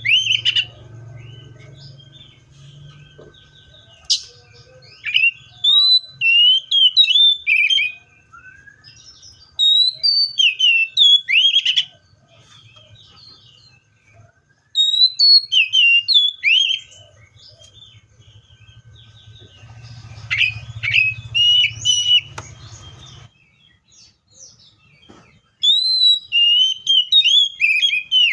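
Seychelles magpie-robin singing: loud, clear phrases of sliding whistled notes, delivered in bursts of two to three seconds with short pauses between them.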